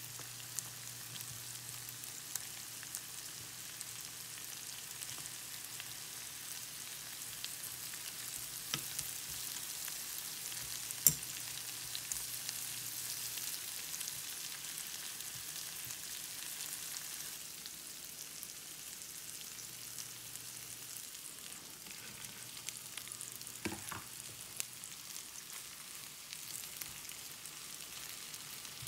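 Zucchini slices, bell pepper strips and onion frying in oil in a pan, with a steady sizzling hiss. A metal fork turning the vegetables clicks and scrapes against the pan now and then, with one sharp click about eleven seconds in.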